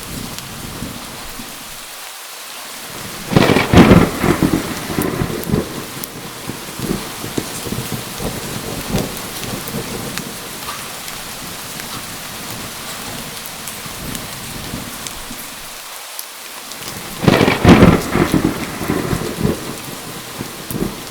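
Steady heavy rain with two cracks of thunder, one about three seconds in and one near the end. Each rolls on as a rumble for a few seconds.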